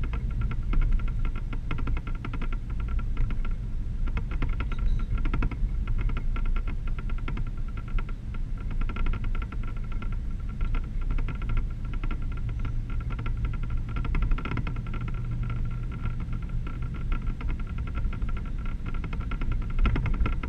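1988 Chevrolet K1500 pickup truck driving, with a steady engine and road rumble, a constant whine and a fast, continuous rattle.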